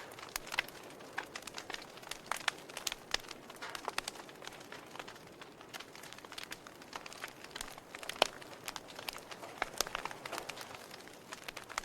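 Wood fire in a fireplace crackling: irregular sharp pops and snaps over a soft hiss, with one louder snap about eight seconds in.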